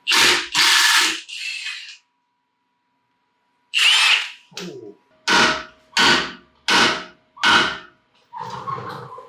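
Hammer blows on steel as a tie rod end is knocked loose with a puller. There are a few heavy strikes, then a pause, then one ringing metal hit and a steady run of four blows about two-thirds of a second apart.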